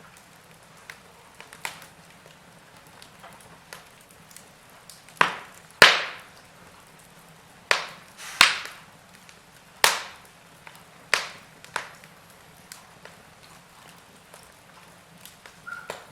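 Logs burning in a fireplace, crackling with scattered sharp pops; the loudest pops come in a cluster from about five to eleven seconds in.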